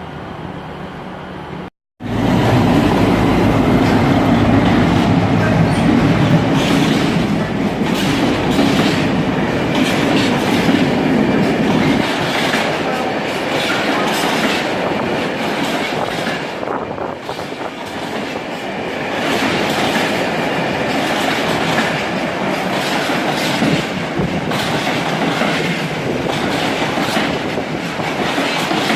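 Diesel train running through the station: a heavy low engine rumble for the first several seconds, then wheels clattering rhythmically over the rail joints. The sound cuts out briefly about two seconds in, then comes back loud.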